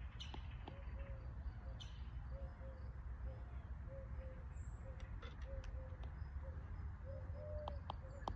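Faint outdoor ambience: birds chirping and calling in short repeated notes over a steady low rumble, with a few light clicks.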